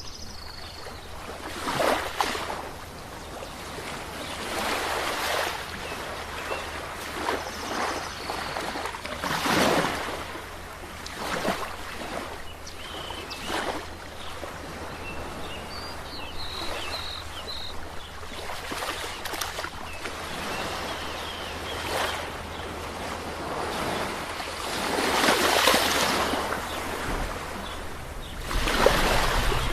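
Sea waves breaking on a shore: a steady wash of surf that swells in irregular surges every few seconds. The strongest surges come a little past the middle and again near the end.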